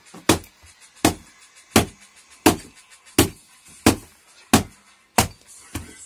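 A chopping blade striking through a pig's rib bones on a chopping block, nine sharp blows at an even pace of about one every 0.7 seconds.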